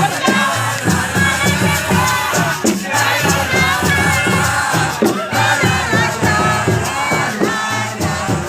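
A crowd of supporters singing and chanting together over loud music with a pounding beat.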